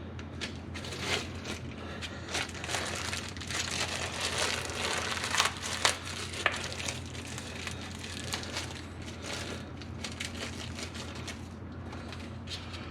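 Irregular small clicks, scrapes and rattles of hand work on metal parts, over a steady low hum: castle nuts being fitted and threaded by hand onto the ball joint studs of a freshly mounted front spindle.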